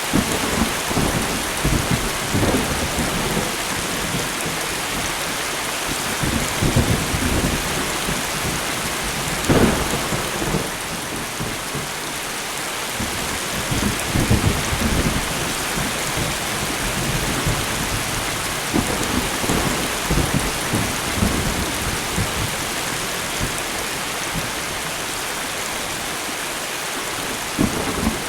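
Steady rain with thunder rumbling and crackling on and off, the loudest peal about a third of the way in.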